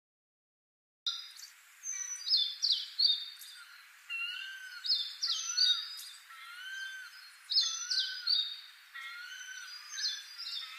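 Birds singing: a mix of quick high chirps and a short arched whistle repeated every second or so, starting about a second in after total silence.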